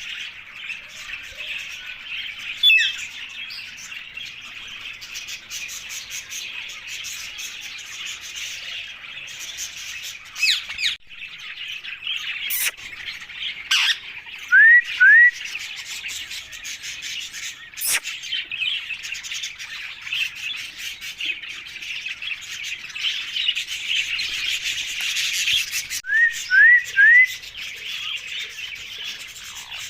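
Birds chirping in a steady dense chatter, with short loud rising whistles from a parrot: two about halfway through and three in quick succession near the end. A few sharp clicks are mixed in.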